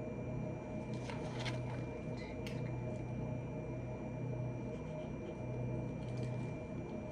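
A steady low hum with a faint high whine, with a few light clicks and rustles about a second in and again near two and a half seconds.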